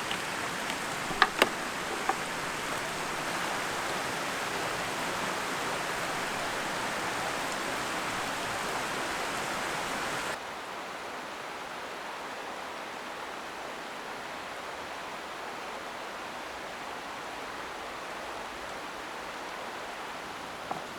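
Mountain stream flowing: a steady rush of water, with a few sharp clicks in the first couple of seconds. About ten seconds in it cuts abruptly to a quieter, duller rush.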